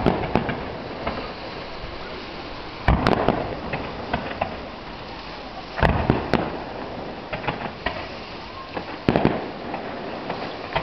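Aerial firework shells bursting: four heavy bangs about three seconds apart, with lighter crackling pops between them.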